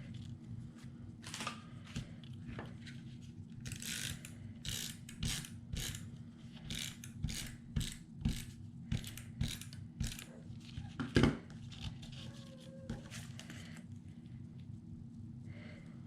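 Paper-crafting tools and paper being worked at a table: a quick run of short scratchy strokes and clicks, then one louder knock about eleven seconds in.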